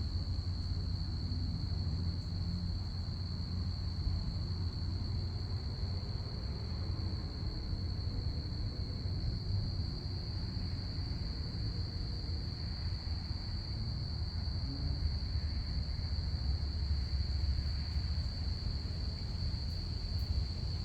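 Crickets trilling in one steady, high, unbroken tone, over a continuous low rumble.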